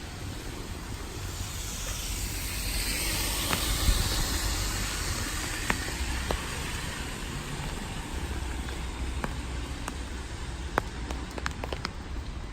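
A car passing on a rain-soaked road: the hiss of its tyres through the water swells to a peak about four seconds in and fades, over steady rainfall. Scattered sharp ticks come in the second half.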